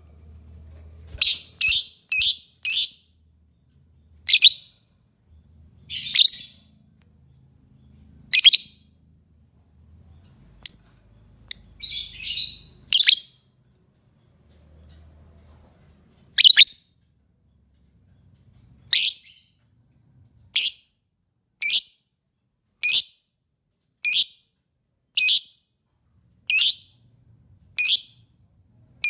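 Bird calls used as a trapping lure: short, sharp, high call notes, each sliding down in pitch, given singly and in quick runs of two to four, settling in the second half into a regular series of about one call a second. A faint steady high whine runs beneath them.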